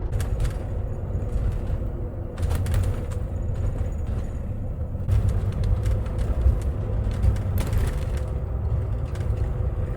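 Road and engine noise inside a moving camper van's cabin: a steady low rumble with a faint steady hum and a few light clicks and rattles.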